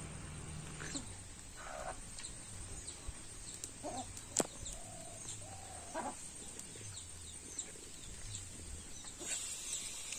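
Birds chirping in short high notes, with a few lower short calls between them. A single sharp click comes about four and a half seconds in.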